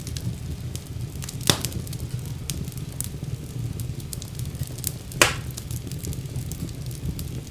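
Wood fire burning in a fireplace: a steady low rumble of flames with frequent light crackles, and two loud pops from the burning logs, about one and a half seconds and five seconds in.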